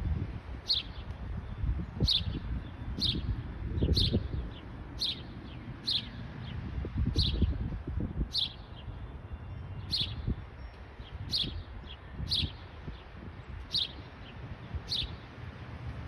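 A small bird repeating a single short, falling chirp about once a second, over a low rumble of wind on the microphone.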